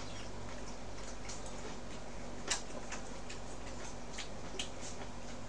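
Faint, irregular clicks of closed-mouth chewing on spicy beef bulgogi and rice, with one sharper click about two and a half seconds in, over a steady background hum.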